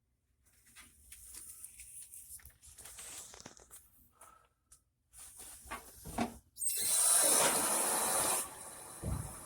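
A few small handling clicks and rustles, then about two-thirds of the way in a shower is turned on and water suddenly sprays from the shower head, loud at first and then settling to a steadier, quieter rush.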